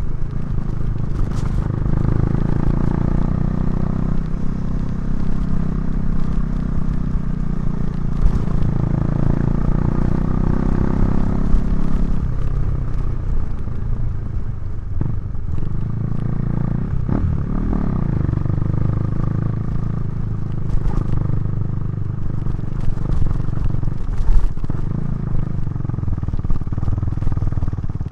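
KTM 390 Duke's single-cylinder engine running through a Remus exhaust while riding, its pitch rising and falling with the throttle. Revs drop sharply a few times in the second half, as on gear changes or rolling off.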